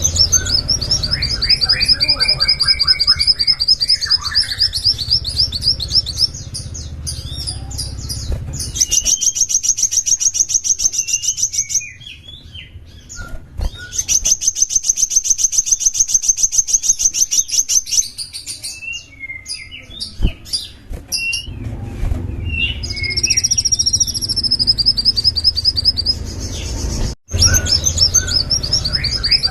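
A small songbird singing long, fast trills of rapidly repeated high notes, in phrases broken by short pauses, with a few lower whistled notes near the start. A low rumble runs under parts of the song.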